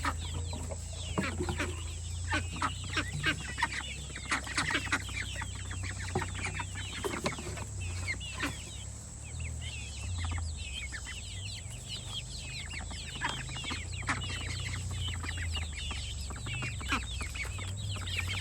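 A flock of chickens clucking, many short calls overlapping, over a steady low hum.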